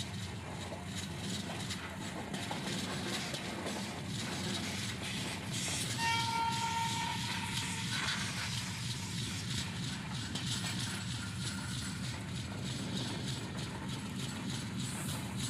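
Express passenger train running, heard from on board: a steady rumble and rattle of wheels on the track with light clicks. Partway through, a train horn sounds for about two seconds.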